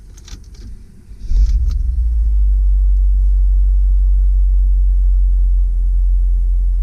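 2001 GMC Sierra 3500 HD truck's engine starting readily about a second and a half in, after a few small clicks, then idling with a steady low rumble.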